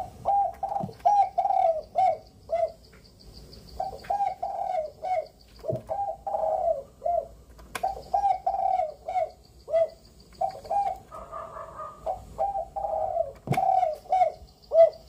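A dove cooing in repeated short phrases, with a few sharp clicks in between.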